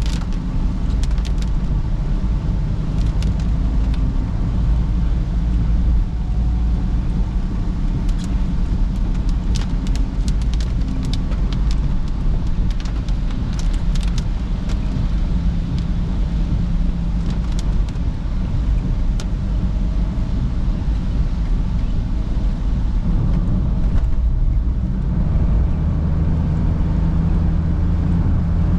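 Perodua Bezza small car being driven: steady engine and road rumble, with scattered sharp ticks through the middle. The engine note shifts about 25 seconds in.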